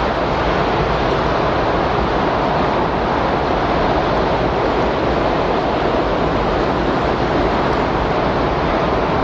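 Windstorm ambience: a steady, even rush of wind noise with no gusts, lulls or breaks.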